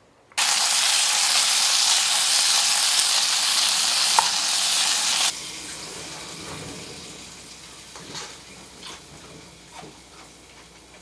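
Pork steak frying loudly in a hot pan, an even sizzle that cuts off abruptly about five seconds in. A much fainter sizzle with a few small clicks follows and slowly dies away.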